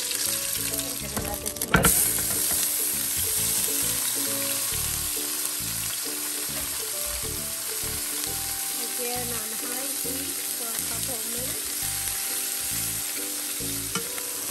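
Roma tomato wedges frying in hot oil in a pan on high heat, giving a steady sizzle. About two seconds in there is a sudden loud burst of sizzling as the tomatoes go into the oil, and a utensil stirs them near the end.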